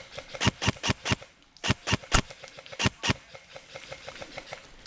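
Airsoft rifle firing quick semi-automatic shots: nine sharp cracks in three fast groups of four, three and two, followed by faint, even ticking.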